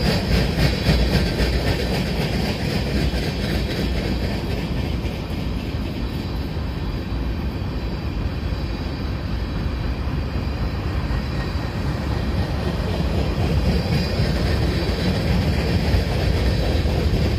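Freight train cars rolling past, a steady rumble of steel wheels on rail, with clicks of the wheels over the rail joints around the start.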